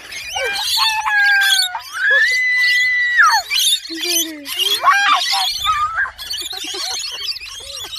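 Several birds calling at once: long held whistles and notes that slide up and down over a busy, high-pitched chatter.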